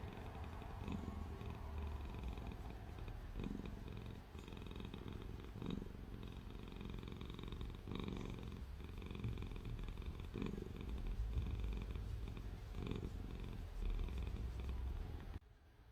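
Domestic cat purring steadily and close up, the purr swelling with each breath about every two and a half seconds. It cuts off abruptly just before the end.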